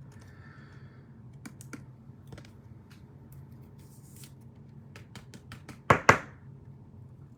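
Irregular light clicks and taps of small objects being handled on a tabletop, with two louder sharp snaps about six seconds in.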